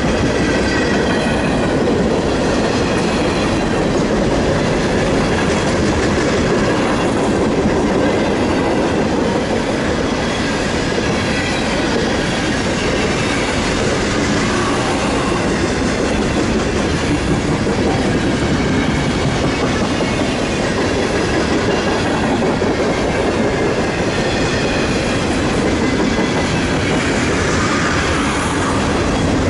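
Freight train of container-loaded flatcars rolling past close by: a steady rumble with the clatter of wheels over rail joints, and a faint high wheel squeal at times.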